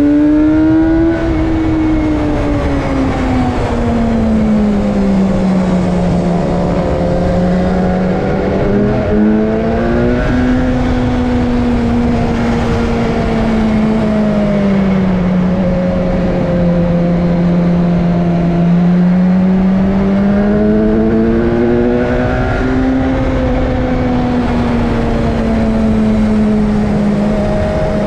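BMW S1000R's inline-four engine running hard at speed, its pitch rising and falling in long slow sweeps as the throttle opens and closes, over steady wind noise.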